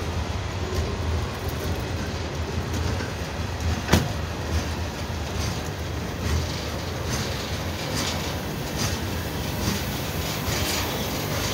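Freight train cars rolling past close by: a steady rumble of steel wheels on rail with faint clicking, and one sharp bang about four seconds in.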